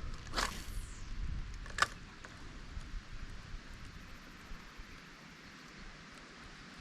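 Wind buffeting a head-mounted camera's microphone, a steady hiss with low gusty rumble. Two brief sharp sounds come early, about a second and a half apart.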